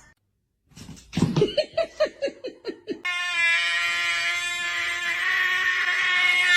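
A cat vocalizing: a quick run of about eight short meows, each dropping in pitch, then one long, steady yowl.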